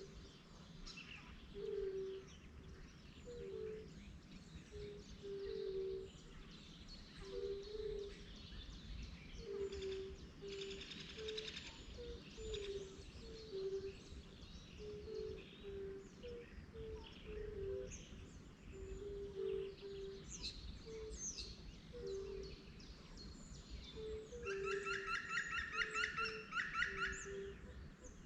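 Water birds calling over open water: a steady run of short low hooting notes, scattered high chirps, and near the end a loud, rapid trilling call that lasts a few seconds.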